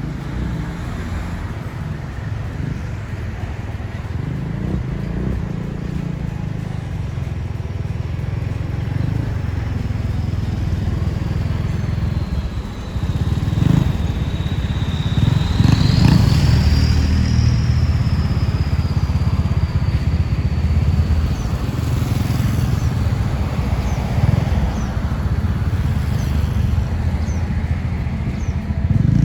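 Diesel train running, a steady low rumble from the engine and track. A thin high whine drifts down, then rises and falls back about halfway through.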